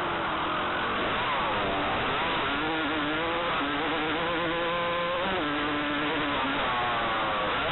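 Motocross dirt bike engine being ridden on the track, its pitch climbing and falling again and again with the throttle, dropping sharply about five seconds in, over a constant rushing noise.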